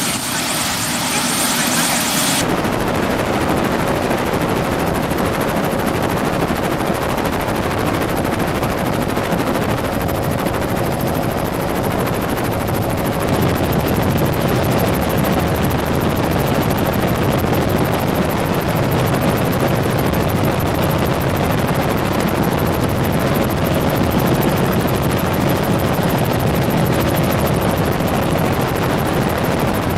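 Helicopter in flight: a loud, steady noise of rotor and turbine. The sound changes about two seconds in, then runs on evenly.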